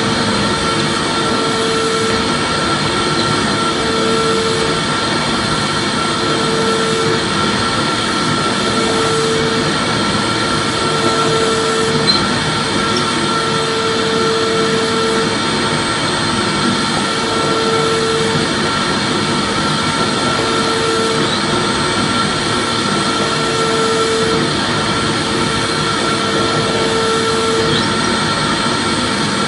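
Vacuum cleaner running steadily: a continuous rushing hiss with a high motor whine, and a lower hum that comes and goes every second or two.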